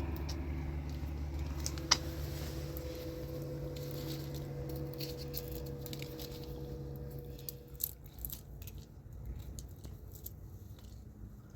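A vehicle's engine running with a steady hum that fades away over the first seven or eight seconds. There is a sharp click about two seconds in, then light scattered clicks and taps.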